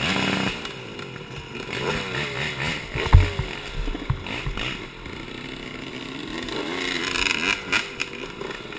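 Yamaha YZ125 two-stroke dirt bike engine revving up and down with the throttle while riding, with knocks and rattles from the bike, including a loud thump about three seconds in.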